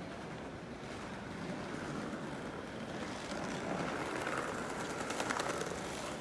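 City street ambience: the steady noise of vehicles and the street, growing a little louder partway through.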